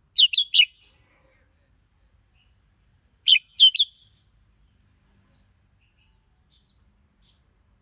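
Red-whiskered bulbul singing two short phrases about three seconds apart, each a quick run of three notes.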